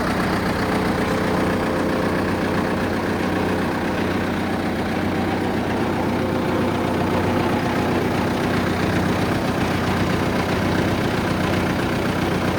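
Rima four-wheel-drive tractor's engine idling steadily at an even pitch.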